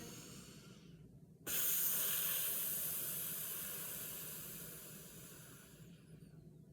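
A woman's long forced exhale through her teeth and lip, an 'fff' hiss, starting suddenly about a second and a half in and fading away over about four seconds. It comes after a faint in-breath.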